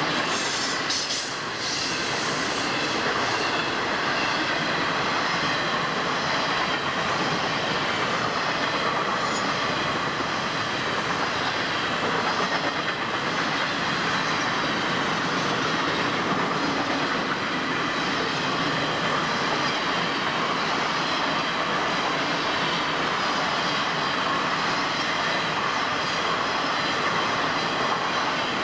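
Florida East Coast Railway intermodal freight cars, loaded with trailers and containers, rolling past close by: a steady noise of steel wheels on the rails and rattling cars.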